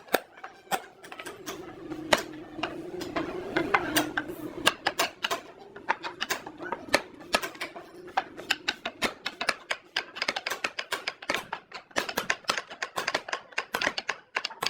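Rapid, irregular tapping and knocking, with a steady low hum under it through the first half that fades out after about nine seconds.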